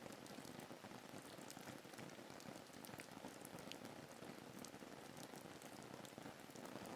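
Steady, soft rain ambience: an even patter of rain falling on a surface, with many small individual drops ticking through it.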